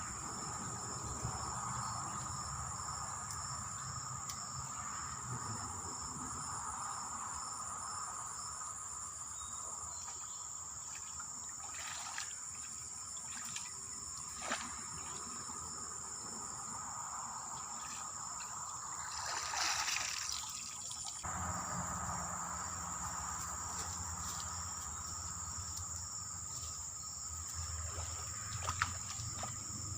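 Steady high-pitched chorus of insects such as crickets in a swamp, with faint trickling water and a few sharp clicks. A brief rush of noise comes about twenty seconds in.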